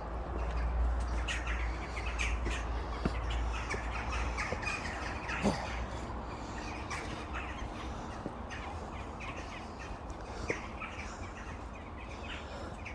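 Outdoor birdsong: many short bird calls and chirps, with a low rumble in the first few seconds and a few sharp clicks.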